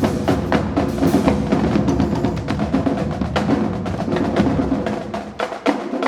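Marching drumline playing a fast cadence of dense snare and drum strokes. The deep low end drops away about five seconds in, leaving sparser strikes.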